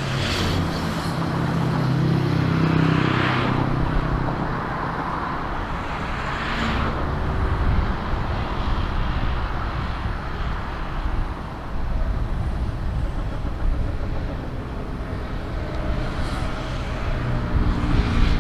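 Outdoor road traffic: a steady rumble of vehicles with several passing whooshes, one every few seconds, and a low engine hum in the first few seconds.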